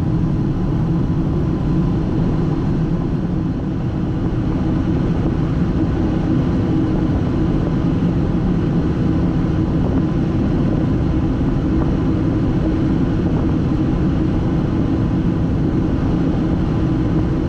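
Steady flight-deck noise of a Boeing 757-200 freighter in the climb after takeoff: even engine and airflow noise with a low rumble, unbroken throughout.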